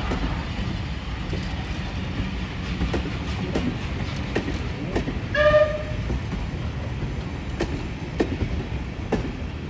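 Train running, a steady low rumble with wheels clicking over rail joints, and a single short whistle toot about five seconds in.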